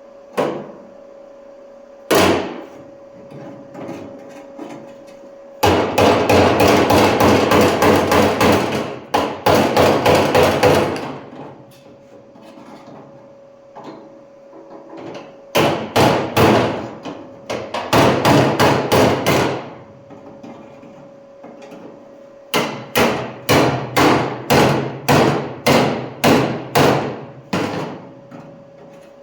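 Hammering on the steel fender of a 1956 Chevy Bel Air during bodywork: a couple of single knocks, then three runs of quick blows with short pauses between. The first run is the fastest, and the last settles to two or three blows a second.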